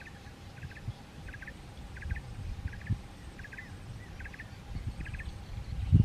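A bird repeating a short, rattling chirp about eight times at an even pace, over a low rumble of wind on the microphone that swells near the end.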